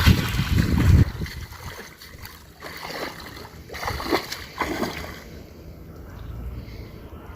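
Water splashing around a fishing net just thrown from a boat, several separate splashes between about two and five seconds in. A loud low rumble fills the first second.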